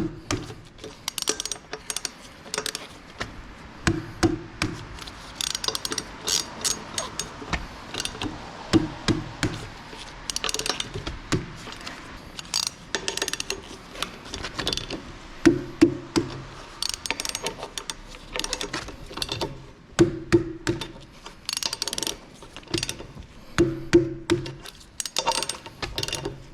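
Hand tools clicking and clattering, with a socket ratchet wrench ratcheting in short runs. Light music plays behind.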